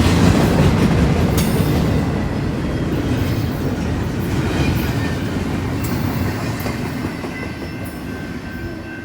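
Norfolk Southern freight train rolling past, a steady low rumble with wheels clicking over rail joints and faint wheel squeal, gradually fading as it moves away.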